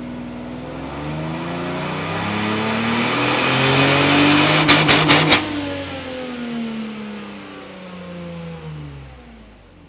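Mercedes SL600 V12 revving up under load on a chassis dynamometer, the pitch climbing for about five seconds. A quick run of sharp cracks comes at the peak, then the revs fall away as the engine winds down.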